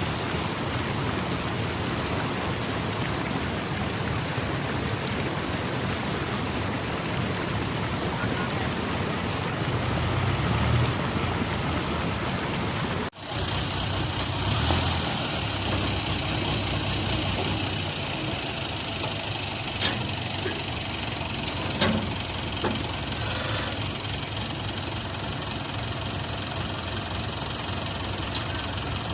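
Heavy machine engine running steadily under dense noise, with a few short knocks in the second half. The sound cuts out for an instant about thirteen seconds in and resumes.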